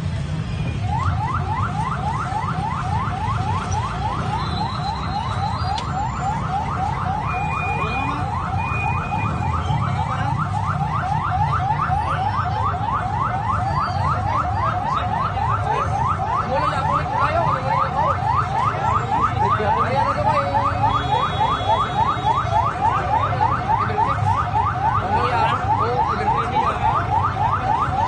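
Vehicle alarm sounding a fast, evenly repeated rising whoop, starting about a second in, over a steady low rumble.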